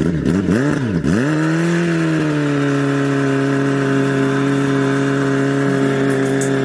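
A car engine running. Its pitch dips sharply three times in the first second, then holds nearly steady at raised revs.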